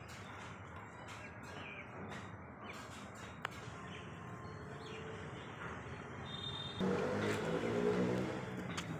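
Outdoor ambience with faint bird chirps. About seven seconds in, a louder low-pitched wavering sound of unclear source rises, then fades near the end.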